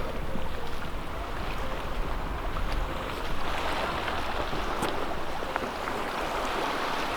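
Sea surf washing steadily against a rocky shoreline, with wind rumbling on the microphone.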